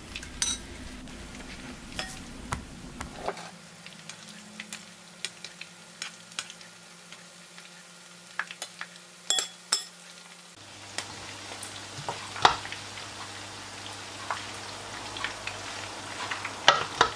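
Batter-coated chicken fillets frying in oil over medium heat in a nonstick pan: a steady sizzle with scattered clicks and taps from a utensil turning the pieces. After a cut about ten seconds in, stir-fried noodles and vegetables are tossed in a steel pan, with soft scraping and clicks.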